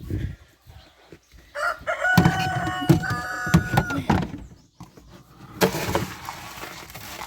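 A rooster crowing once, one long call of about two and a half seconds, followed near the end by a burst of rustling noise.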